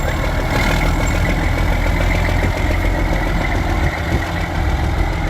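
Diesel truck engine running steadily at low speed, a deep rumble with a steady high whine above it.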